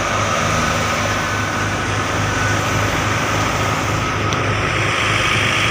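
Harvest machinery engine running steadily and loudly: a constant low hum with a steady whir and dense mechanical noise over it.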